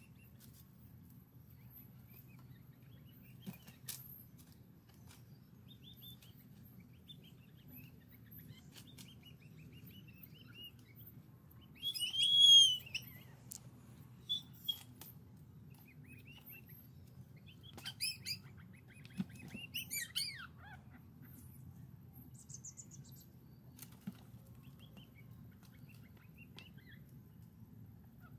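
Wild birds calling in scrub forest: a few short high chirps, the loudest about twelve seconds in and a cluster of quick falling calls around eighteen to twenty seconds, over a low steady hum, with a few faint taps.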